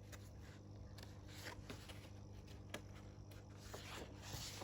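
Very quiet room tone: a faint steady electrical hum with a few soft, scattered clicks.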